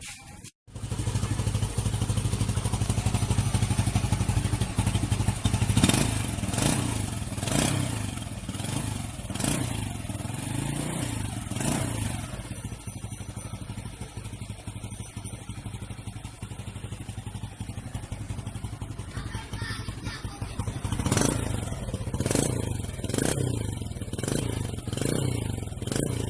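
Honda Supra Fit motorcycle's single-cylinder four-stroke engine idling through a Yamaha Jupiter Z aftermarket 'Robot' exhaust. The throttle is blipped in short quick revs, several times in the first half and again near the end, with a crisp, bassy exhaust note.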